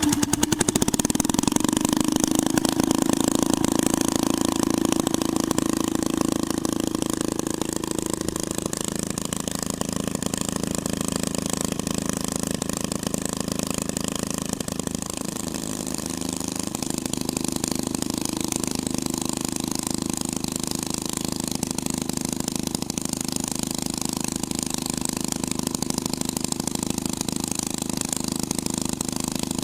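Twin-engined hot rod running steadily, loudest in the first few seconds. About halfway through its note sags briefly and then comes back.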